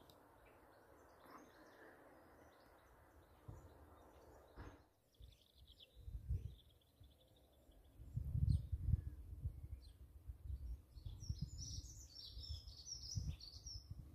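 Small birds chirping, with irregular low rumbling that starts about six seconds in and is loudest a couple of seconds later.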